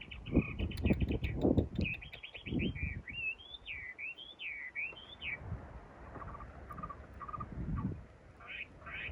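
Small birds chirping in quick repeated notes, with a run of rising and falling song notes about three to five seconds in. Irregular low knocks and rumbles lie underneath.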